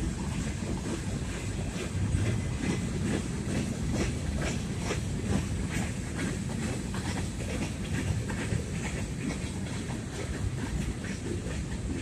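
Freight train of tank cars and covered hopper cars rolling past: a steady low rumble of the wagons with frequent sharp clicks and clunks from the wheels on the rails.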